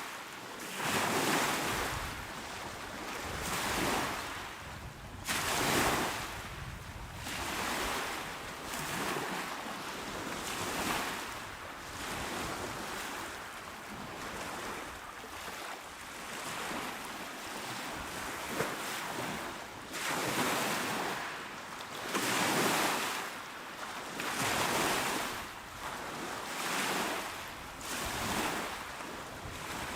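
Small waves washing onto a shore, each swelling and fading as it breaks, with a fresh one every two to three seconds.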